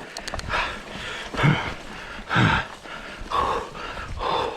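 A man breathing hard and grunting with effort, about one heavy breath a second, from the exertion of pedalling a mountain bike uphill.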